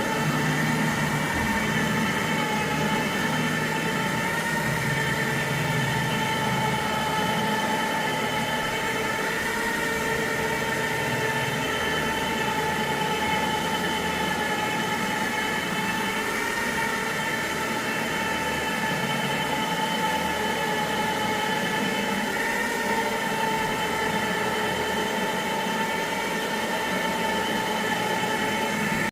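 Carpet-cleaning extraction machine running steadily with a constant high motor whine.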